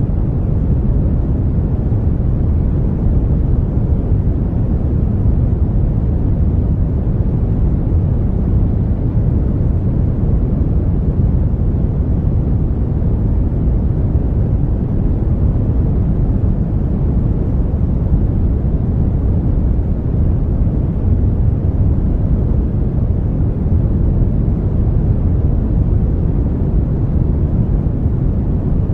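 Brown noise: a steady, even rumbling hiss, strongest in the deep lows and fading toward the highs, with no changes or events.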